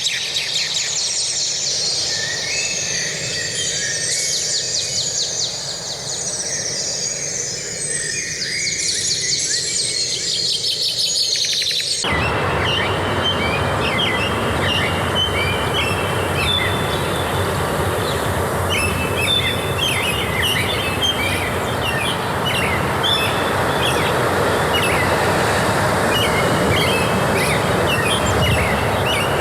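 Forest birds singing, with dense high trills and chirps. About twelve seconds in the sound changes abruptly to a steady rushing noise, with bird chirps continuing over it.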